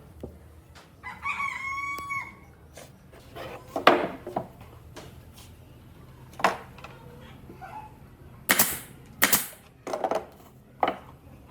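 A rooster crows once, about a second in. Scattered sharp knocks follow, the loudest around four seconds in, and near the end come two short, loud hissing bursts and a few more knocks.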